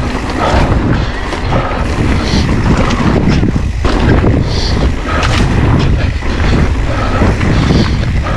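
Wind buffeting the action camera's microphone as an electric mountain bike is ridden fast over a woodland trail. It makes a dense low rumble, with frequent short knocks and rattles from the bike jolting over rough ground.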